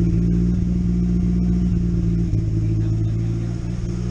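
A Mazda Miata's freshly rebuilt and swapped 1.8-litre BP four-cylinder engine idling steadily, heard at the exhaust tailpipe.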